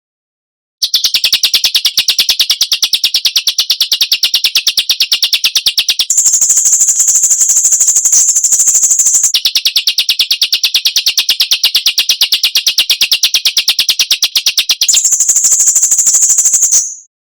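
Songbird recording playing a fast, even run of harsh rasping notes, the 'besetan' used in masteran bird-training audio. It starts about a second in, alternates between a lower-pitched and a higher-pitched version of the rattle, switching about every three to five seconds, and stops just before the end.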